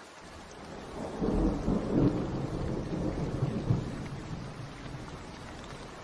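Rolling thunder over steady rainfall. The rumble swells about a second in, is loudest over the next two or three seconds, then fades back into the rain.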